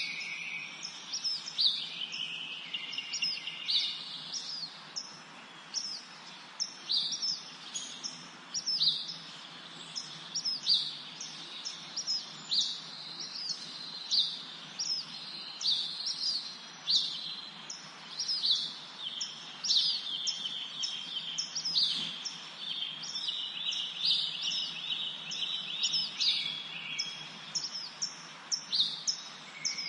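Several songbirds chirping and singing in a spring forest: many short, sharp, high chirps in quick succession, with a few longer buzzing trills, over a soft background hiss.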